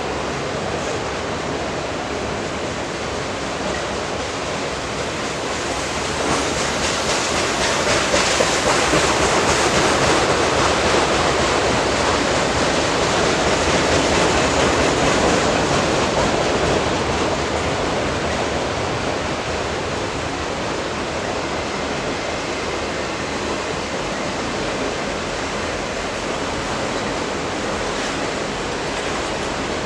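A train rolling past on the rails, a steady rush of wheel noise that swells louder for about ten seconds in the middle.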